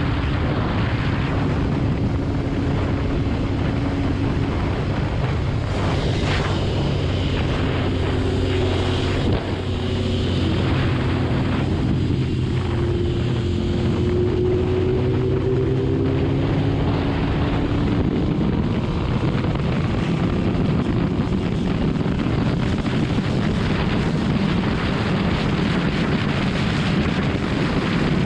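BMW S1000RR's inline-four engine running at steady highway speed, its pitch drifting slightly, under heavy wind rush on the microphone.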